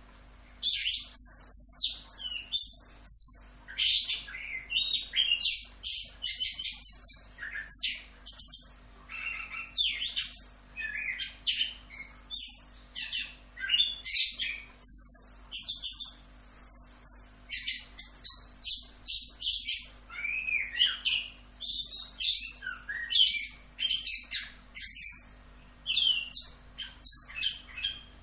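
Chestnut-capped thrush (anis kembang) singing its rolling 'ngerol' song: a fast, almost unbroken run of varied high whistles, trills and chattering notes, starting about half a second in.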